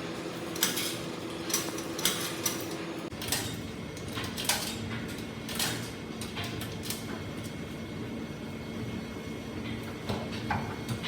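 Washing machine running: a steady hum with irregular clanks and knocks throughout.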